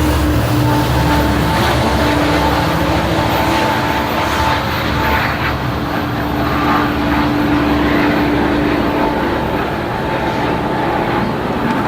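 A train passing close by: a diesel locomotive's engine rumble and rail noise, with a steady whine that fades out about nine seconds in.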